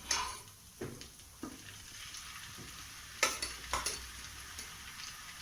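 Onion and spice-powder masala sizzling gently in a frying pan while it is stirred, with several sharp scrapes and knocks of the spatula against the pan, the strongest pair a little after three seconds in. This is the sauté that cooks off the raw smell of the ground spices.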